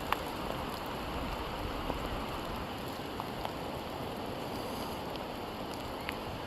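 Steady rain falling, an even hiss with a few sharp ticks of drops landing close by.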